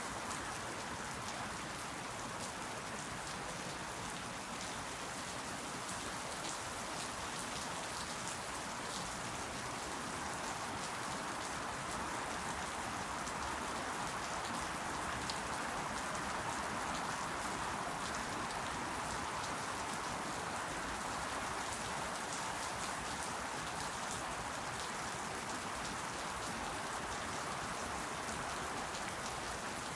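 Steady rain falling on leaves, a constant even hiss with fine pattering of individual drops.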